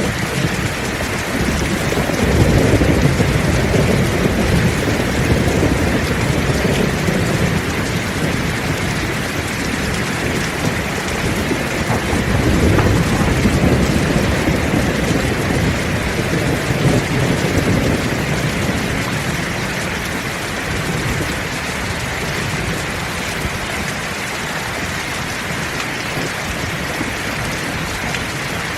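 Heavy rain pouring steadily. Low rolling thunder swells about two seconds in, and again around the middle, then fades.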